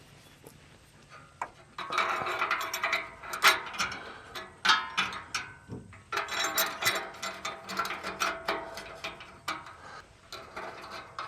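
Hand ratchet wrench clicking in short rapid bursts as a nut on exhaust hardware is turned, starting about two seconds in.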